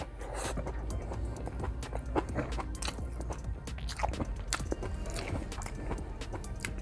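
Close-miked chewing of a mouthful of soft rice and stewed vegetables, with wet lip smacks and clicks as fingers are licked, over soft background music.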